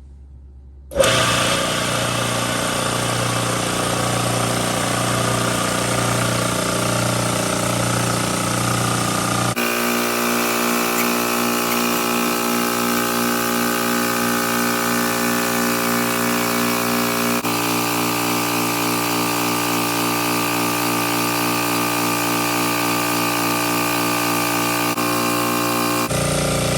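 Electric piston air compressor starting about a second in and running steadily under load, its note shifting twice as the tank pressure builds, then stopping at the end as the pressure switch cuts it out. The cut-out shows it now reaches full pressure after its cylinder head was resealed with a gasket in place of a corroded O-ring; before the repair it only built about 65 psi.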